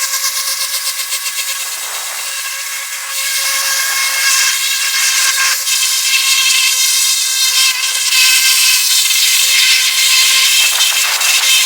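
Pressure washer running: a steady high motor whine with the hiss of the water jet, fluttering during the first few seconds, as moss and grime are blasted off a truck.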